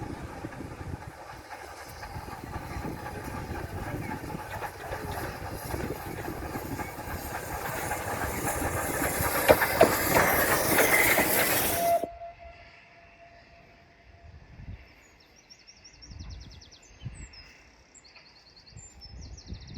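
A train running past on the railway, its rumble growing louder for about ten seconds with a few sharp clicks near the peak, then cutting off abruptly. Small birds then chirp against a quiet background.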